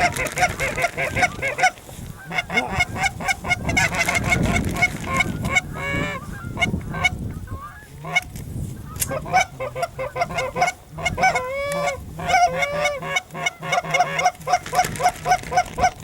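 Geese honking and clucking in a fast, continuous chatter of short repeated notes, with a few longer drawn-out bending honks around the middle.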